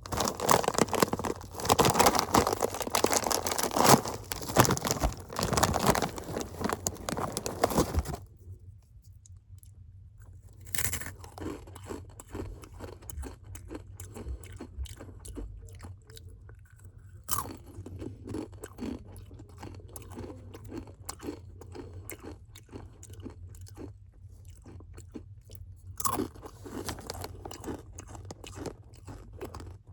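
A person crunching and chewing Takis rolled tortilla chips close to the microphone. The crunching is loud and dense for about the first eight seconds, then settles into quieter chewing with a few sharper single crunches.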